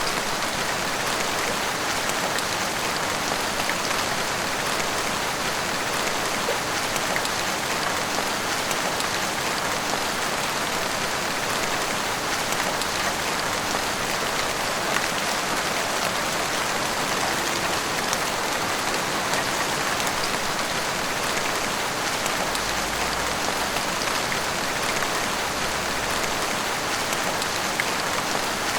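Heavy rain falling steadily and pattering on surfaces, an even hiss with many fine drop taps.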